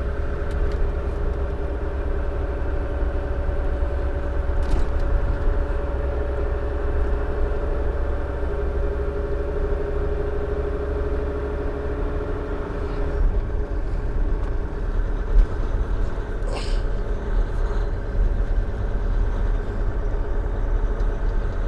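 Volvo dump truck's diesel engine heard from inside the cab while driving, a steady deep drone with engine tones whose note changes about thirteen seconds in. Two brief sharp sounds stand out, one about five seconds in and one near seventeen seconds.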